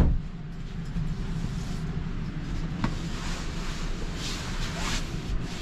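A fold-down bunk drops into place with a single loud thud at the very start, followed by a steady low rumble with a faint click and soft rustling.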